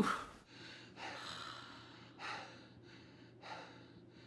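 A person breathing heavily and out of breath, a loud breath at the start and then about one breath a second.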